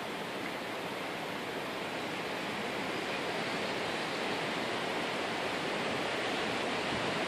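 Steady, even rushing outdoor noise with no distinct calls or knocks, rising slightly toward the end.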